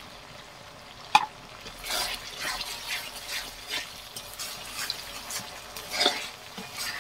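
Spice paste frying in hot mustard oil in a wide metal wok, stirred with a metal spatula in short scraping strokes about two a second. A sharp clack about a second in, as the spoon hits the pan, is the loudest sound.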